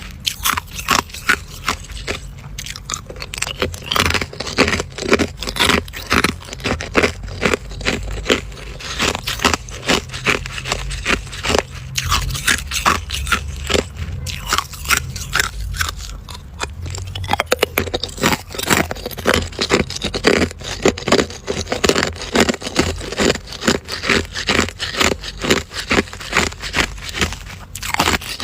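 Close-miked chewing of ice: a person biting down and crunching ice in the mouth, with many sharp crunches following one another a few times a second.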